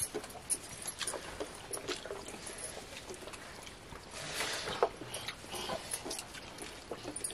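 A boy eating rice with his hand: wet chewing and small clicking mouth sounds, with a longer, louder noise about four and a half seconds in as a handful goes into his mouth.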